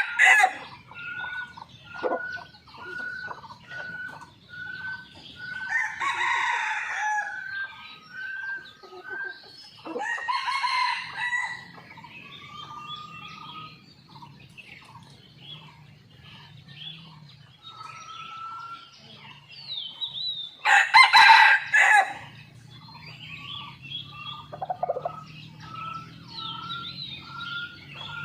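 Red junglefowl crowing three times, loudest about two-thirds of the way through, amid a steady run of short, high repeated calls about twice a second.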